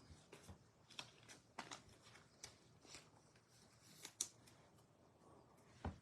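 Faint, irregular clicks and light swishes of trading cards being handled and slid against one another, with a slightly louder tap just before the end.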